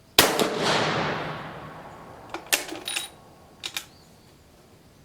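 A Dutch Beaumont rifle firing a single shot, the report ringing out and fading over about two seconds. A couple of seconds later the bolt is worked, with a cluster of sharp metallic clicks and one more pair of clicks near the end.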